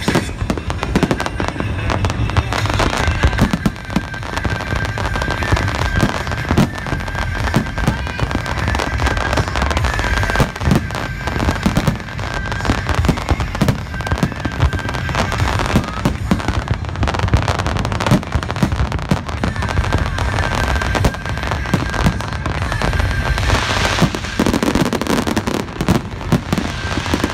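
Fireworks display barrage: a continuous, dense run of aerial shell bangs and crackling, with many reports overlapping.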